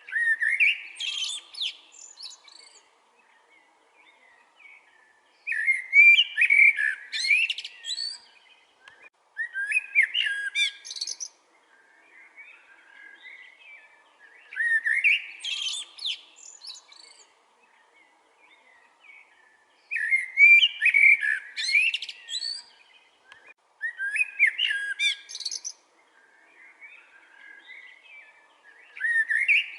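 A songbird singing the same short, quick phrase of rising and falling whistled notes over and over, about every four to five seconds, with fainter chirps between the phrases.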